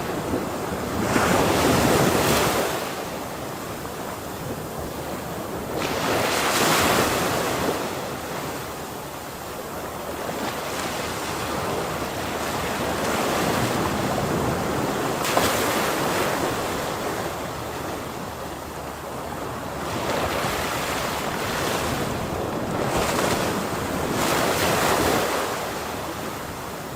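Ocean surf: waves breaking and washing ashore, the rushing noise swelling and fading every few seconds in about five surges.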